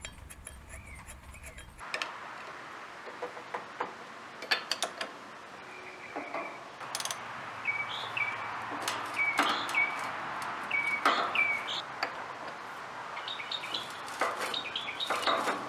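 Scattered irregular clicks and knocks of hand tools working on the lawn mower's engine as the flywheel nut is tightened down, over a steady hiss. Short high bird chirps come in several times through the middle.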